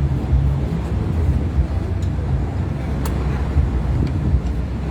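Boat engine running with a steady low drone, and a single short click about three seconds in.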